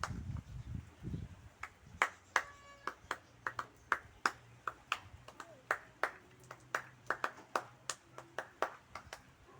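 Scattered raindrops hitting as sharp, irregular taps, two or three a second, as the rain eases off. A brief low rumble comes in the first second.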